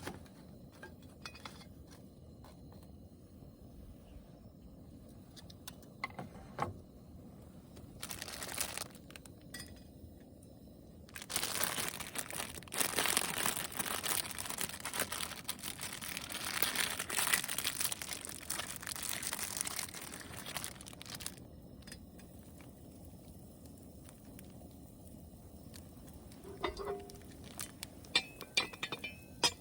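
Crinkling of wrapping being handled: a short burst about eight seconds in, then a longer stretch of about ten seconds. A few light clinks come near the end.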